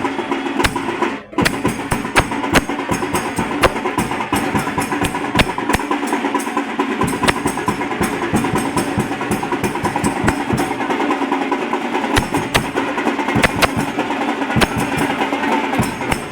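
Music with fast, dense drumming throughout, briefly dropping out about a second in.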